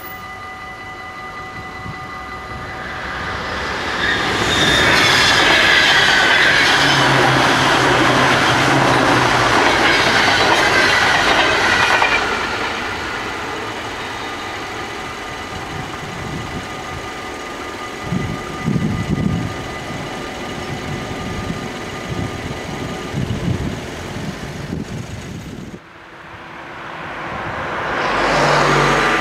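Level-crossing bells ringing steadily while a train passes, its wheels on the rails building up over a few seconds, loud for about eight seconds, then fading. Near the end, after a sudden break, the train sound rises again under the bells.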